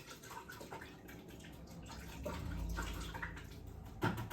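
A paintbrush being swished and rinsed in a bucket of water, with sloshing and dripping that grow stronger partway through, and a single sharp knock near the end.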